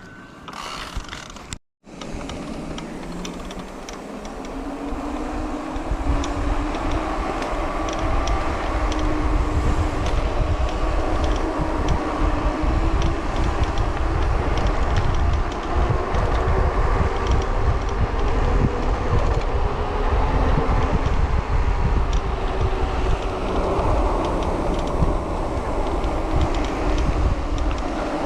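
Wind buffeting the microphone while riding along, with a steady hum that rises in pitch over the first few seconds and then holds level, and faint scattered ticks.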